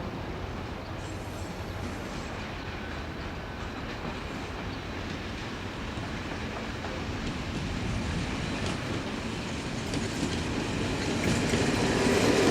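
Train running on the rails, with a steady rumble and wheel clatter that grows louder over the last few seconds.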